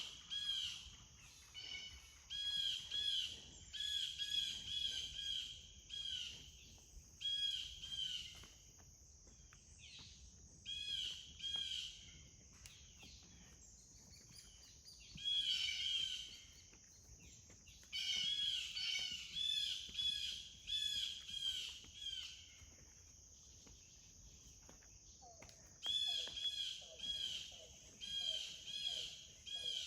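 A songbird singing bouts of quick, repeated chirping notes with short pauses between bouts, over a steady high-pitched drone. Near the end, a few lower calls join in.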